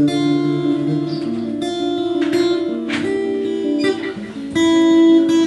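Guitar playing chords, with notes left ringing and a few strums.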